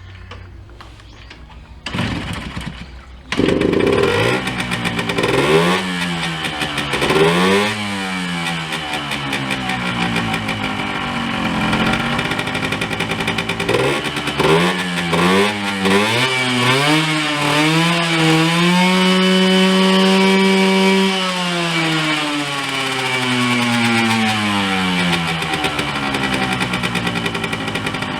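Suzuki GN50E's two-stroke single-cylinder engine starting about three seconds in, then revved in short blips, run up to a longer held rev in the middle that falls back, and revved once more before settling near the end.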